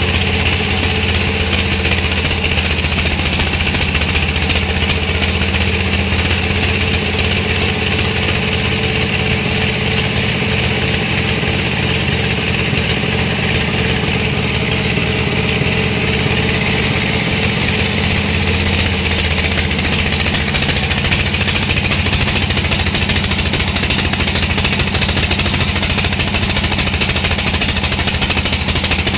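Sawmill machinery running with a steady, loud engine-like drone that shifts slightly in pitch about two-thirds of the way through.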